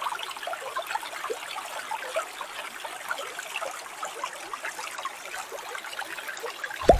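Stream water babbling and trickling over rocks, a busy, irregular bubbling. A single low thump comes just before the end.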